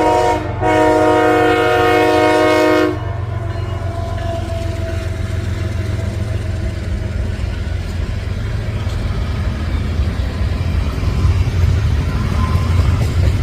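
CSX freight locomotive's air horn sounding a chord: a short break about half a second in, then a long blast that stops about three seconds in. After it, the steady low rumble and rattle of the passing freight train, growing louder near the end.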